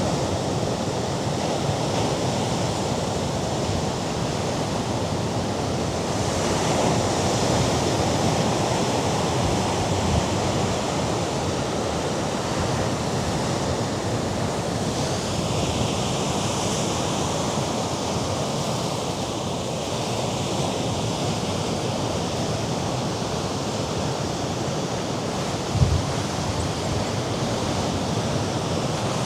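Mediterranean surf washing and breaking on the rocky shore, a steady rush that swells now and then, mixed with wind buffeting the microphone. A single short low thump comes near the end.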